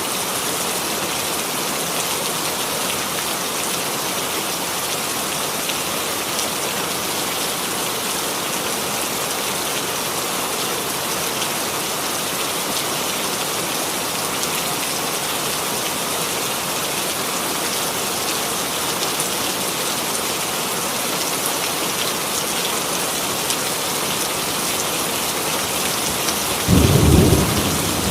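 Steady rainfall, with a short, loud low rumble of thunder near the end.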